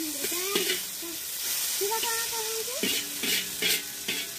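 Noodles sizzling in a hot metal wok over a wood fire while a flat metal spatula stirs and scrapes them, with several short scrapes in the second half. Pitched voice-like sounds carry faintly in the background.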